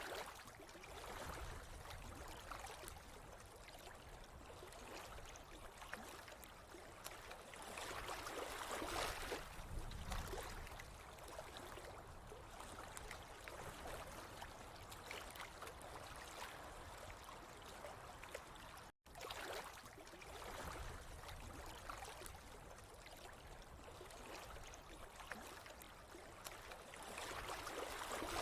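Running water trickling and gurgling steadily, swelling louder twice, with a brief cut in the sound about two-thirds of the way through.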